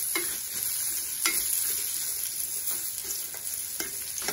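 Cashews, raisins and chopped dates sizzling in ghee in a stainless steel pan as a metal spoon stirs them, with a few sharp scrapes and taps of the spoon on the pan. The nuts and fruit are being sautéed until golden.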